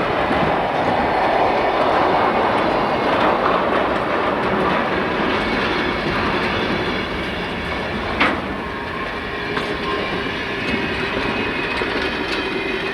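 Train rolling past, wheels clattering over the rail joints, with one sharp crack about eight seconds in.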